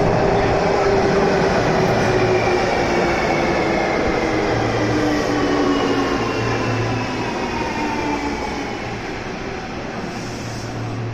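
Train running and slowing, several whining tones falling slowly in pitch over the rumble as the sound eases off.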